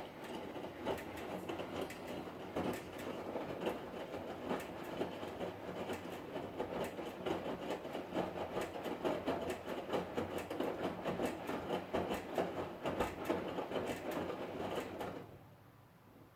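Hotpoint Ariston washing machine drum turning and tumbling the wash, a busy clattering churn that stops abruptly near the end, leaving a faint low hum.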